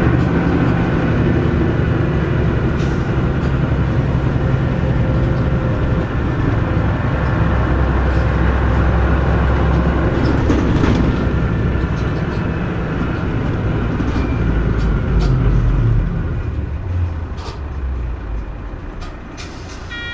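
Mitsubishi Fuso Aero Star city bus heard from inside while under way, its diesel engine pulling steadily with some rattles from the cabin. About three quarters of the way through the engine note drops away and the sound eases off as the bus slows.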